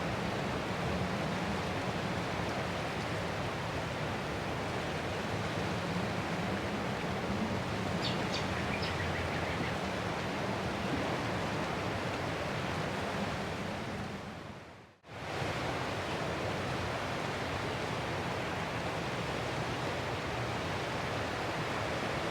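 Steady, continuous ocean surf noise, an even wash without distinct breaking waves. About two-thirds of the way through it fades out to a brief gap and fades straight back in, as at a loop join.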